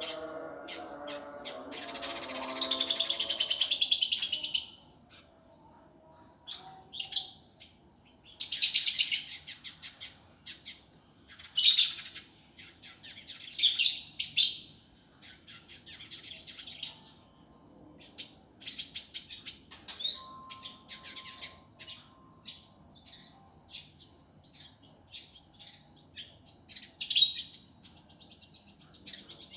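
Indigo bunting singing a harsh, fast song: repeated phrases of rapid, tightly packed high chips, each lasting one to two seconds, with scattered quieter chips between them.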